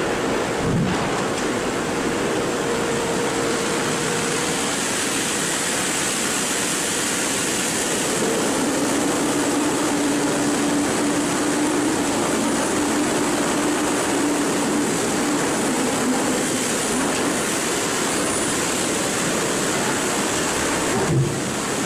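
Sawmill machinery running: a loud, steady, dense noise with a low hum that settles to a lower pitch about a third of the way in.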